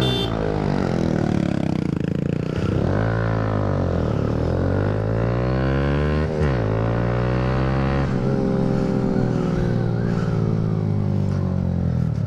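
Motorcycle engine running under load while riding, its pitch climbing and dropping several times as it accelerates and changes gear.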